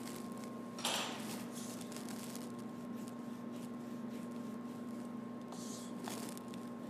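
Paintbrush strokes on a stage backdrop: short, scratchy swishes, one louder about a second in and another near the end, over a steady electrical hum.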